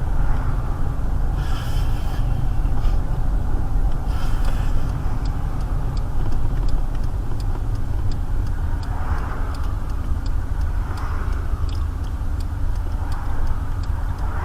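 Steady road noise from a moving car, heard from inside: a low engine and tyre rumble with road hiss. Two short bursts of higher hiss come in the first few seconds, and faint regular ticks run through the second half.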